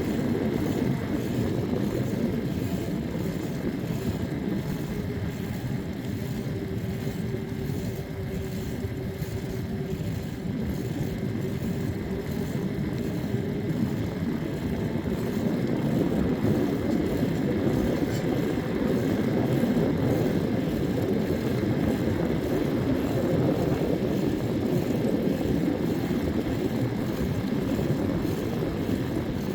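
Wind rushing over the microphone and road noise from a moving ride, a steady low rumble throughout, with a faint steady hum for several seconds near the middle.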